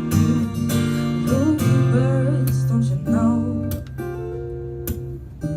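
Acoustic guitar strummed in chords, the instrumental passage of a singer-songwriter's song between sung lines.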